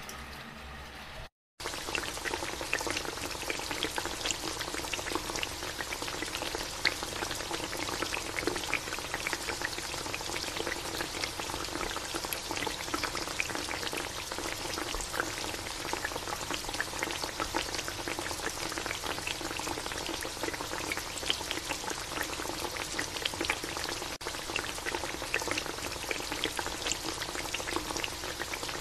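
Chicken adobo simmering in its dark sauce in a wide metal pan, bubbling and sizzling with a steady crackle. The sound drops out briefly about a second in, then continues.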